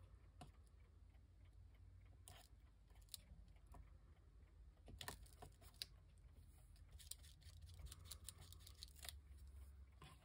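Near silence: room tone with faint, scattered small clicks and light taps, a few of them bunched together in the second half.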